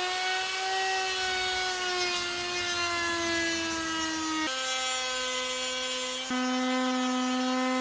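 Small carving chainsaw running at high revs. The engine note sags slowly, then drops suddenly about halfway through as the saw loads up cutting into the wood.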